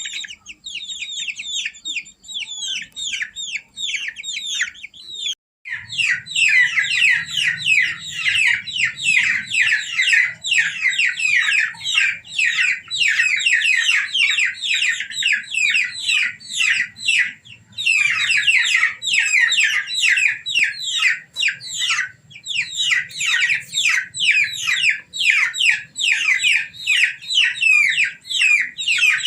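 A brood of domestic chicks peeping: many rapid, high, downward-sliding peeps overlapping one another. The peeping breaks off briefly about five seconds in, then comes back louder over a faint low hum.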